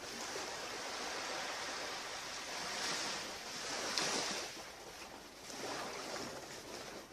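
Surf washing onto a beach: a steady hiss of waves that swells twice, about three to four seconds in and again near six seconds.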